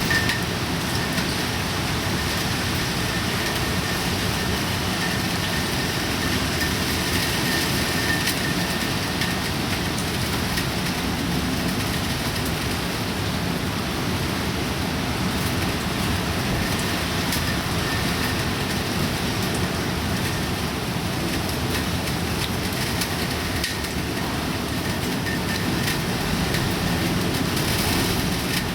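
Heavy typhoon rain falling steadily as a continuous hiss, with a faint high whistle that comes and goes.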